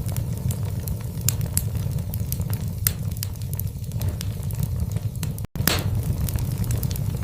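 Wood logs burning in a fireplace: a steady low rumble of flame with frequent sharp crackles and pops. About five and a half seconds in the sound cuts out for a split second, then comes back with a louder pop.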